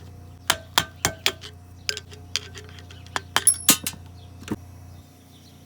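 Small metal parts of a lawnmower carburetor clinking and clicking against each other and against tools as the carburetor is taken apart: about a dozen sharp clinks, some ringing briefly.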